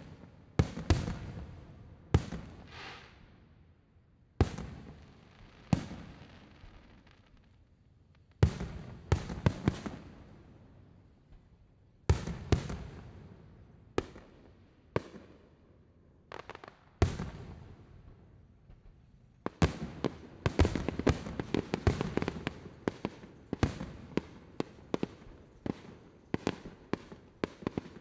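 Aerial fireworks exploding, sharp bangs each followed by a long echoing rumble, coming in separate groups for the first two-thirds and then a dense run of rapid crackling bursts for the last third.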